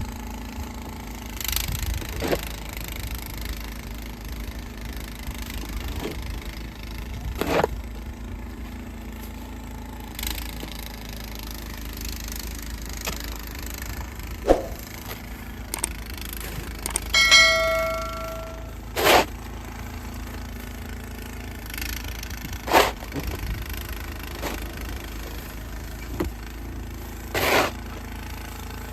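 A low steady rumble with scattered knocks and scrapes. About 17 seconds in, a piece of metal is struck and rings briefly with a clang.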